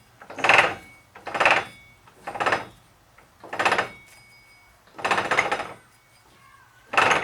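Front axle shaft of a 2003 Ford Expedition turned by hand back and forth in the front differential, giving a metallic clatter in six short bursts roughly a second apart. It is the noise the customer complained of; the teeth on the shaft's tip are chewed up.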